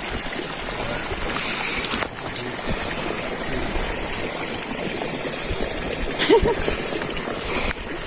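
Heavy wind blowing across the microphone: a steady rushing noise that rises and falls without a break.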